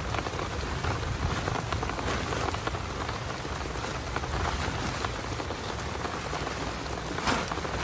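Heavy rain falling steadily: a dense patter of drops on a surface, with one sharper drop or tap a little after seven seconds in.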